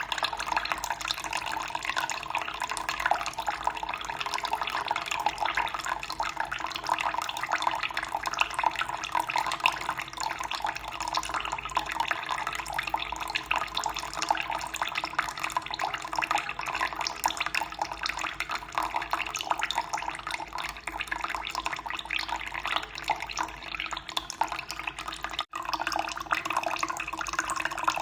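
Running water flowing steadily with a fine, continuous splashing texture. There is a split-second dropout about three seconds before the end.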